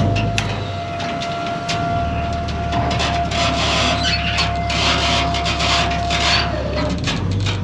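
Wood scraping and creaking under strain, with scattered sharp cracks, over a steady engine hum; a steady whine falls away near the end.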